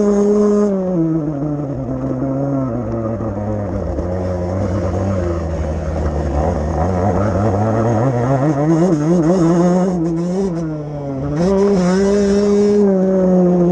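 Motocross bike engine running under throttle, its pitch falling off over the first few seconds, wavering back up, dipping briefly near the end and then climbing again as the rider works the throttle.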